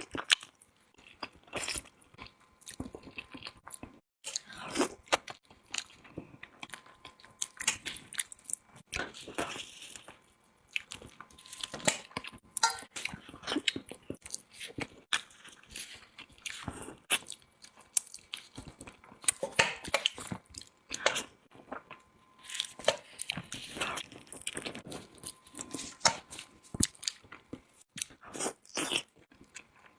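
A person chewing and biting food close to the microphone: irregular wet mouth smacks and crunchy bites.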